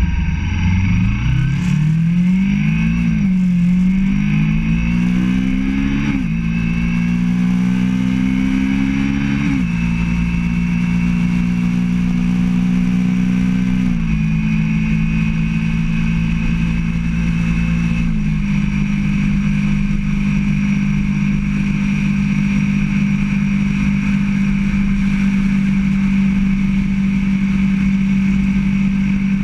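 Motorcycle engine pulling away and accelerating, its pitch climbing and then dropping at gear changes a few seconds apart. After that it runs at a steady cruising speed for the second half.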